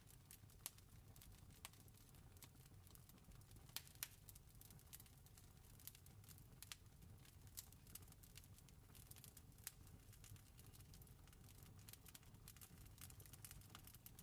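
Faint campfire crackling: irregular sharp pops and snaps of burning wood, several a second, over a steady low rumble.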